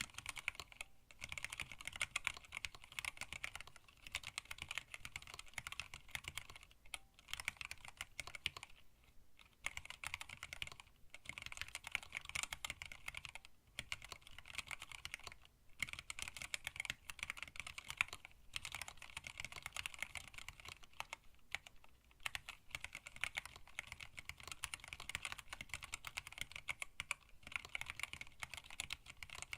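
Fast typing on a hand-wired split mechanical keyboard with Tealios linear switches, blank PBT keycaps and an acrylic case: a steady stream of key clacks broken by a few short pauses.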